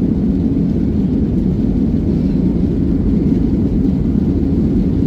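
Steady low rumble of an airliner's jet engines and rushing air, heard from inside the passenger cabin.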